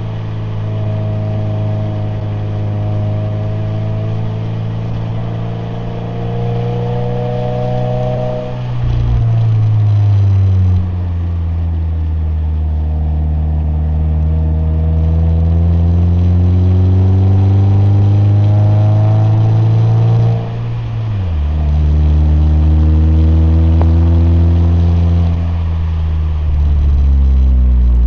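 Subaru BRZ's 2.4-litre flat-four engine and exhaust pulling under acceleration, the note climbing slowly. It drops suddenly twice, about a third and three-quarters of the way through, as the car shifts up a gear, then climbs again.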